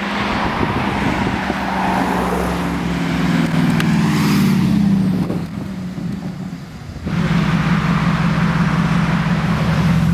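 Mercedes SLS AMG's 6.2-litre V8 through an aftermarket Akrapovic exhaust, running loud. The engine note climbs in the middle, drops away, and then comes back steady and loud about seven seconds in.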